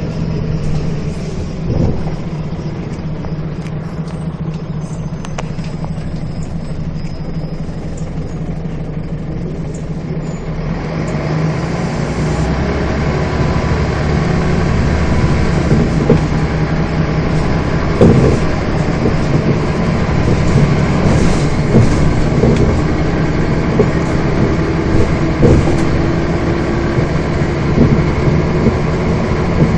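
Scania bus engine idling steadily, then from about eleven seconds in getting louder as the bus pulls away and drives on, with knocks and rattles from the bus over the road.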